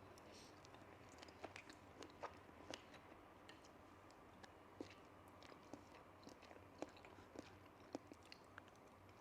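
Faint close-miked chewing of sushi: irregular soft wet clicks and mouth smacks, several a second.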